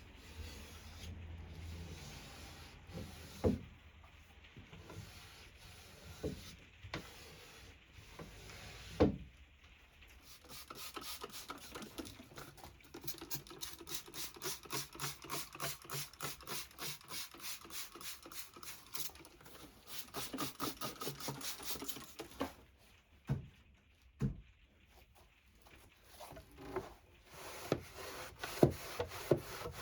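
Rapid back-and-forth strokes rubbing on wood, about three a second, in two long runs, typical of hand sanding or scrubbing a wooden drawer. A few light wooden knocks come first.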